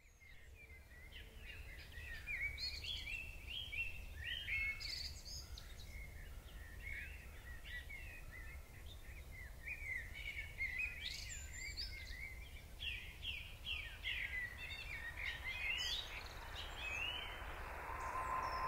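Several songbirds singing and chirping in quick, overlapping phrases over a low steady rumble. Near the end a steady hiss and a single steady tone fade in.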